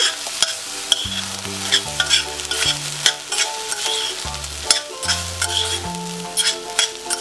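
Metal fork scraping and clicking against a stainless steel saucepan while stirring rice and broccoli in butter, many quick strokes, over background music with a low bass line.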